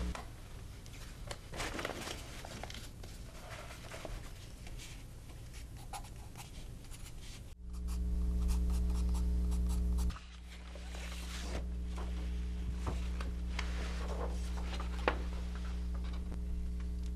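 Soft scratching and rubbing noises with scattered small clicks, over a steady low hum that grows louder about halfway through and then drops back a couple of seconds later.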